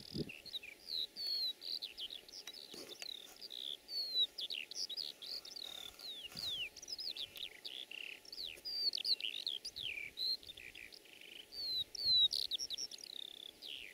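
Songbirds singing without a break: a dense stream of quick chirps and short falling whistles.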